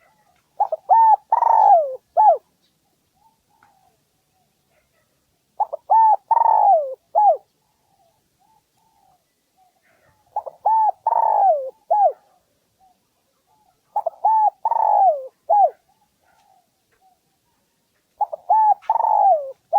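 Spotted dove (Streptopelia chinensis) male giving its song, the call used as a lure to draw in rival males. It sings five phrases about four seconds apart, each two short coos, a long falling coo and a short closing note.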